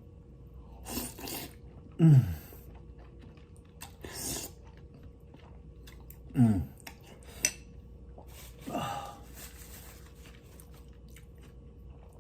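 A person eating lomi noodle soup: short noisy slurps and chewing, with a few brief wordless moans that fall in pitch, the sounds of enjoying the food.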